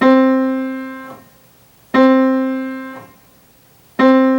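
A piano note struck three times, about two seconds apart, each with a sharp hammer attack, ringing for about a second and then cut off by the damper. The repeated note demonstrates the first part of a piano tone: the initial hammer strike, the click at the beginning of the sound.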